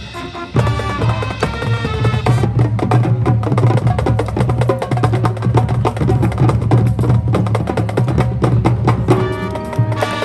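High school marching band playing: a percussion-heavy passage of rapid drum and mallet strokes over a held low note, with band chords in the first couple of seconds and coming back near the end.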